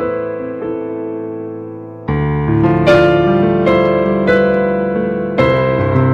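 Slow instrumental electric piano music: sustained chords that fade, with new chords struck about two seconds in and again near the end, under a few higher melody notes.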